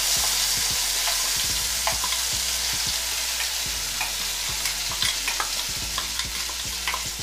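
Ground sweet corn paste sizzling as it drops into hot ghee in a pan, a steady hiss that eases slightly, with scattered clicks and scrapes of a steel spoon scraping the paste out of a steel mixer jar.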